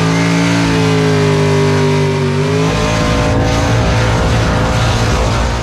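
A skid car's engine held at high revs during a burnout, its pitch steady for about two and a half seconds, then turning rougher and noisier.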